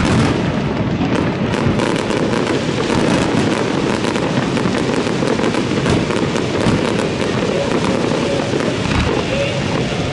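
Fireworks going off in rapid succession: a dense, continuous crackling of many small bursts and pops.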